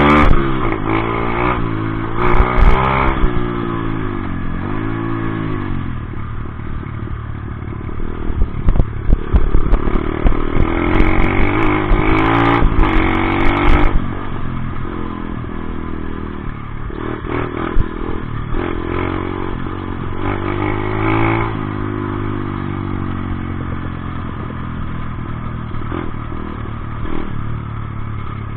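Dirt bike engine being ridden hard, its pitch climbing and dropping again and again as the throttle is worked, with clattering knocks mixed in, thickest partway through.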